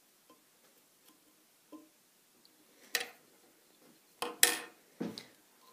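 Light handling clicks and taps of fly-tying tools and thread at the vise: faint ticking at first, then several sharp clicks in the second half.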